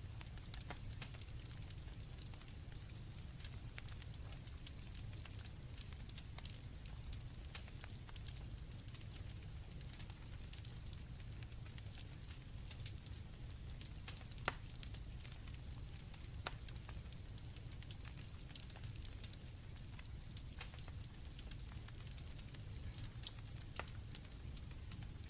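Campfire crackling with irregular sharp pops over a low steady rumble, and crickets chirring steadily at a high pitch. One pop stands out about halfway through.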